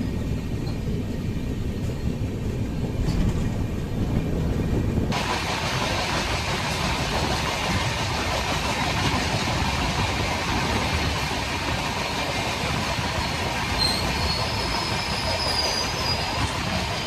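Shatabdi Express train running, a steady rumble of the coach on the rails. About five seconds in, the noise turns suddenly brighter and hissier, and near the end a faint high squeal comes and goes.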